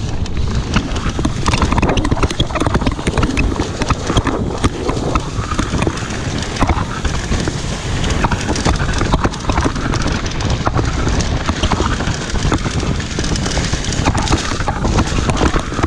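Trek Fuel EX mountain bike riding down a rough dirt trail: tyres running over ground and rocks with a constant rattle of quick knocks and clicks from the bike, and wind rumbling on the microphone.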